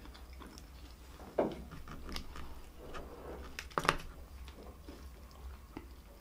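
Close-miked eating sounds: chewing with scattered sharp mouth clicks. The loudest clicks, about four seconds in, come as a fried piece is dipped into a small plastic tub of cheese sauce.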